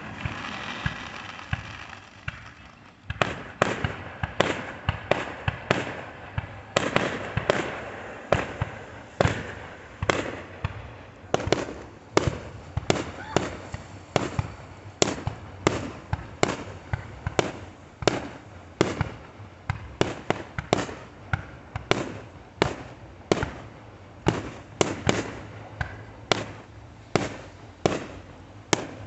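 Consumer fireworks going off: a hissing, crackling start, then a long run of sharp bangs at a fairly even pace, about two a second, with crackle between them.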